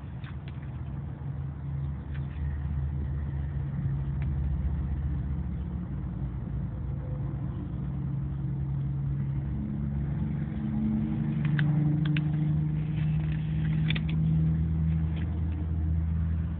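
A car engine running steadily, its pitch rising a little past the middle, with a few light clicks over it.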